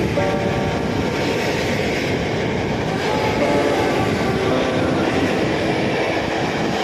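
Train passing on the track: a steady loud rumble of wheels on rails, with short high tones that appear and fade at shifting pitches.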